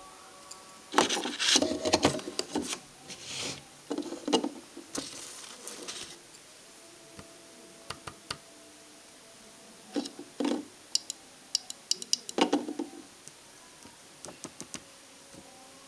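Hard parts and tools being handled: irregular clusters of clicks, knocks and rubbing, starting about a second in and again around ten seconds in, with scattered sharp ticks between.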